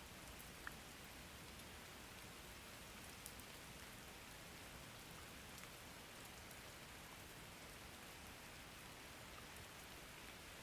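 Faint, steady rain: an even hiss of rainfall, with a couple of single drop ticks, one just under a second in and another about three seconds in.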